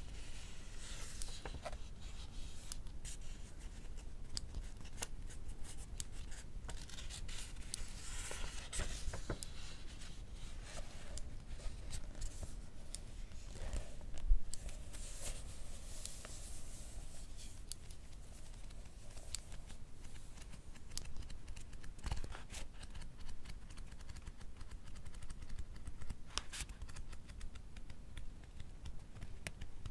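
Paperback book pages rustling and being turned close up, with sharp clicks from a mechanical pencil pushing out its lead. One louder knock comes about 14 seconds in.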